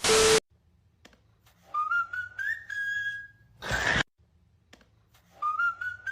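A whistled tone that climbs in a few small steps and then holds steady, cut off by a short loud burst of noise; the same sequence plays again.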